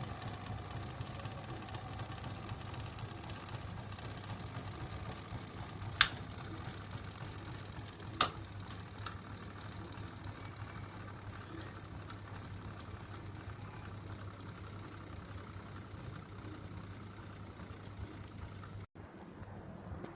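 Small homemade gamma-type Stirling engine running steadily with a fast, even mechanical clatter over a low hum. Two sharp clicks stand out, about six and eight seconds in, and the sound drops out briefly near the end.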